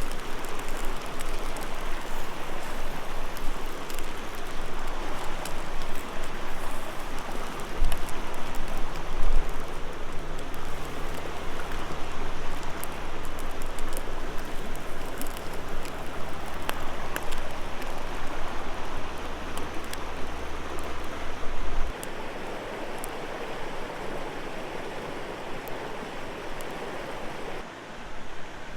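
River water rushing steadily, with scattered small crackles or ticks over it.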